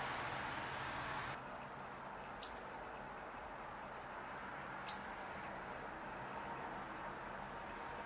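Small songbirds at a seed feeder giving short, high chip calls: several brief notes, with two louder, sharper ones that fall steeply in pitch about two and a half seconds apart. A steady background hiss drops away a little over a second in.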